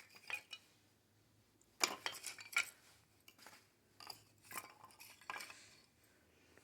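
Scattered light clinks, knocks and rustles of kindling and cardboard being handled and set in a wood stove, in a few small clusters with pauses between.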